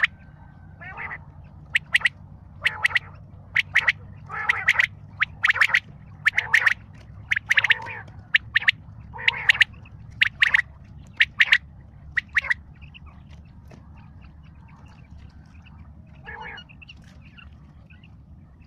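Quail calling in a rapid series of short, sharp notes, one to two a second. The loud calls stop about two-thirds of the way through, and only fainter calls follow.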